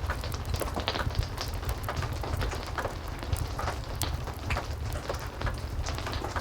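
Heavy rain falling steadily over a low rumble, with frequent small crackles of a wood fire burning in a fireplace.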